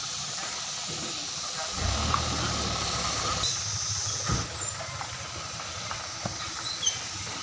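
Steady outdoor hiss with a low engine hum that comes in about two seconds in, and a few faint knocks.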